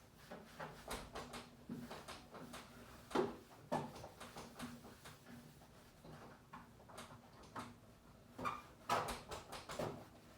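Irregular light clicks and knocks of a refrigerator's door and plastic fittings being handled, louder knocks about three seconds in and again near the end, over a faint steady hum.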